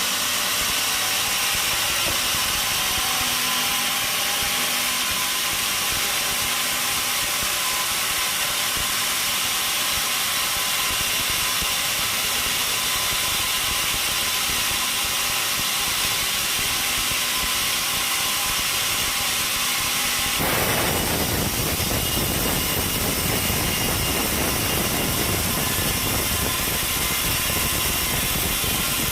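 Sawmill machinery running with a steady mechanical noise; about two-thirds of the way through the sound changes abruptly and a deeper rumble comes in.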